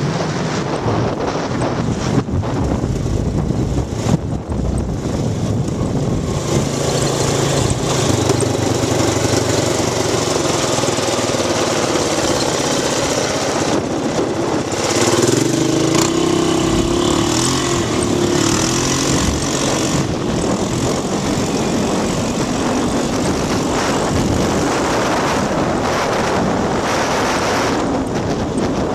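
Polaris Sportsman 500 ATV engine running under way, its pitch rising and falling around the middle, with wind buffeting the microphone.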